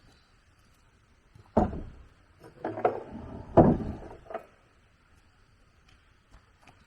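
Wooden knocks and clunks, about five or six in quick succession over roughly three seconds, starting about a second and a half in, the loudest near the start and again near the end of the run.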